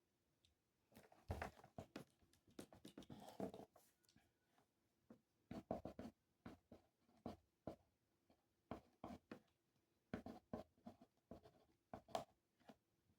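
Faint writing on paper: short, irregular scratching strokes and taps of a pen tip, in clusters with brief pauses between them.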